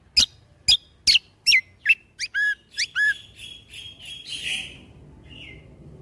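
Kecial kombo (cucak kombo) songbird singing: a run of sharp, steeply falling whistled notes, about two a second and quickening, then a short, softer warbling phrase that stops about a second before the end.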